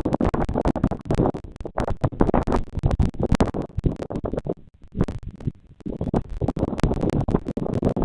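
Dense, loud scratching and crackling close to the nest camera's microphone, with a short lull about four to five seconds in.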